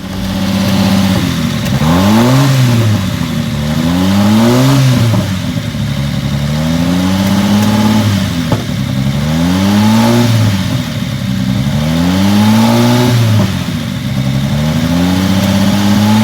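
A car engine idling and being blipped over and over, its pitch climbing and falling back every two seconds or so.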